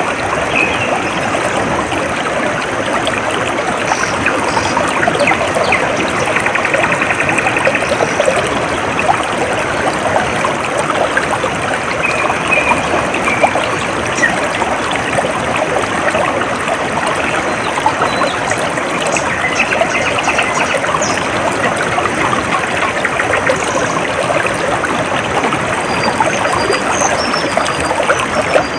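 Stream water trickling and babbling steadily, with short high bird chirps here and there, most of them in the second half.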